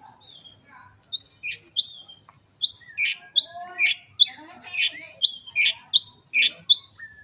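White-rumped shama (murai batu) singing a rapid run of loud, sharp repeated notes, about two a second, starting about a second in. This is the repeated 'tembakan' volley of its song.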